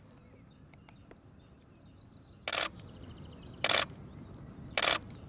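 Canon EOS-1D X DSLR shutter firing in three short bursts about a second apart.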